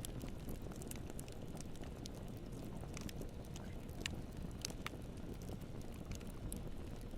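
Campfire burning: a low steady rush of flames with scattered sharp crackles and pops from the burning wood.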